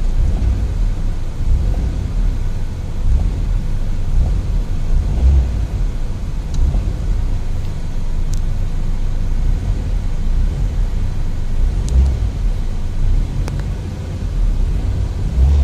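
Toyota Corolla (E11) engine running with no load, a steady low sound whose level swells a little every few seconds.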